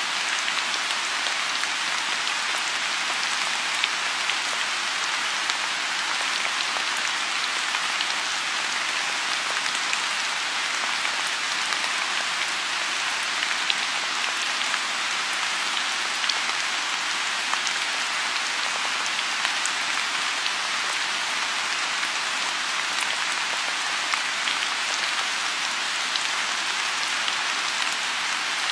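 Steady rain falling on a lotus pond: a dense, even hiss with scattered sharper drop ticks.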